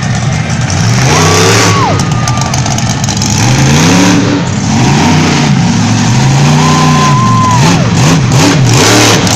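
Off-road truck engine revving up and down repeatedly, its pitch rising and falling several times in quick succession over a loud rushing noise.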